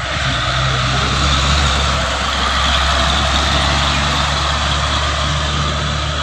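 Truck engine running steadily with a low hum.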